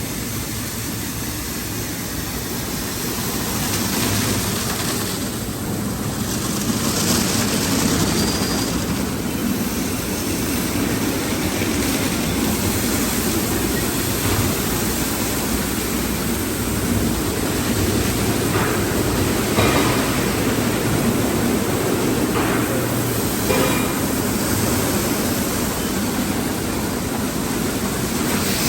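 Automatic car wash tunnel equipment running: a steady rush of water spray and machinery, with a few short hisses partway through.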